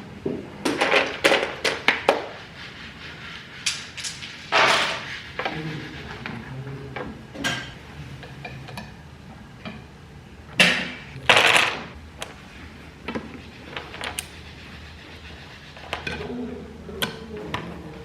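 Workshop handling noises: scattered knocks and clicks of wooden parts and tools being set down and moved, with a few short scraping sounds.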